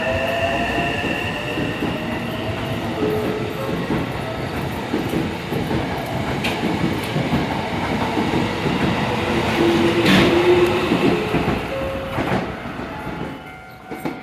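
Hankyu electric commuter train running past, its wheels clattering over the rails, with a rising whine at first and a sharp clank about ten seconds in, the loudest moment. The train sound fades away near the end.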